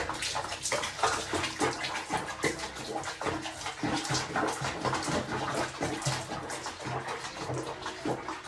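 Water splashing and sloshing in a rapid, irregular run of short splashes.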